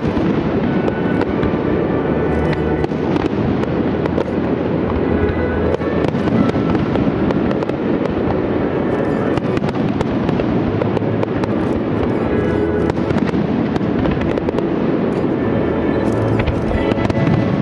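Aerial firework shells bursting in quick succession with many sharp cracks, over loud music played along with the display.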